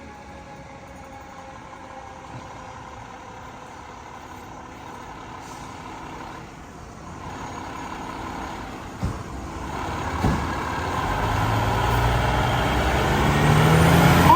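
Fire apparatus responding: a siren's wail dies away at the start, then a heavy truck engine grows louder as the rig approaches, with two short sharp sounds about nine and ten seconds in. Near the end a siren begins to wind up again.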